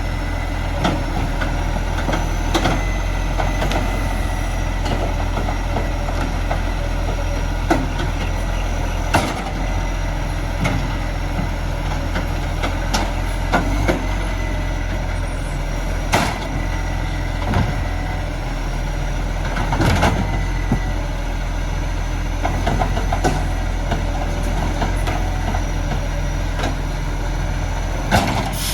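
Garbage truck engine idling steadily, with sharp knocks and clunks now and then.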